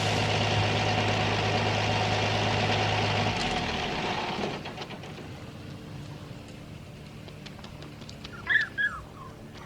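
A vehicle engine running steadily, which cuts off or fades away about three and a half seconds in. Near the end a bird calls twice in short chirps.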